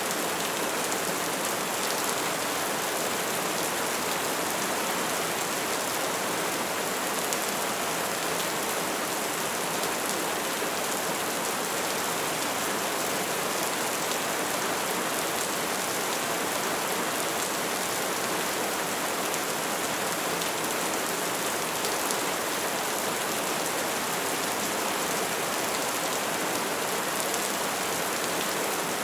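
Steady soft rain falling, an even hiss with fine patter of drops.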